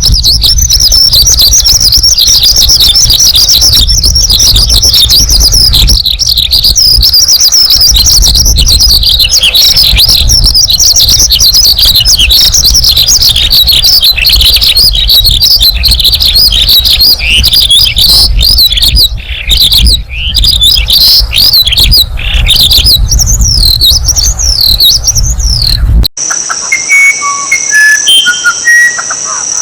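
A crowd of small birds chirping and twittering rapidly and continuously over a low rumble. Near the end the sound cuts abruptly to a steady, high insect trill like crickets, with a few scattered bird whistles.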